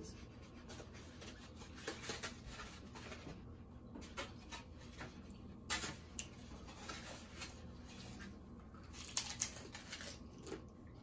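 Faint clicks and rustling of food and tableware being handled while a plate is served, with a few sharper clicks scattered through.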